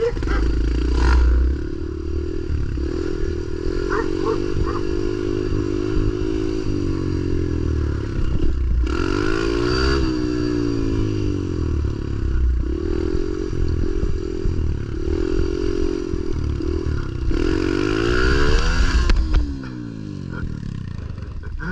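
Pit bike engine revving up and down over and over, its pitch climbing and falling as the throttle is opened and shut for wheelie attempts. The hardest pulls come about nine seconds in and again around seventeen to nineteen seconds in, and the engine drops back to a lower, quieter run near the end.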